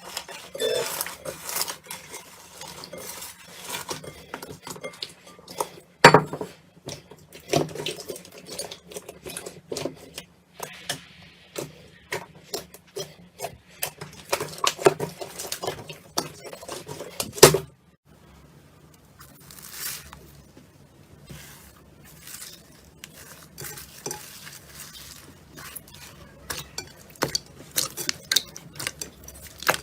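Slime being squished and poked: a dense run of sticky pops, crackles and clicks, with a sharp pop about six seconds in and another near eighteen seconds. After that it goes quieter for a few seconds before the crackling picks up again.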